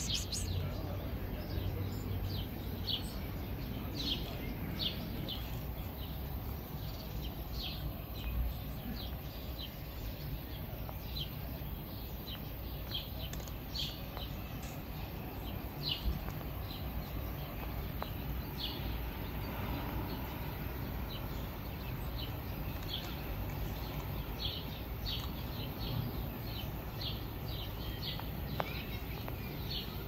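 Small birds chirping: many short, high chirps scattered throughout, over a steady low outdoor rumble.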